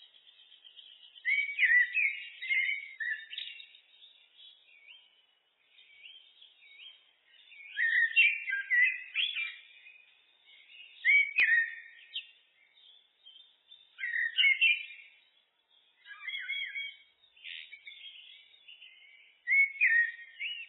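Common blackbird (Turdus merula) singing: about six separate fluty phrases of gliding notes, each a second or two long, with short pauses between them and faint twittering in the gaps.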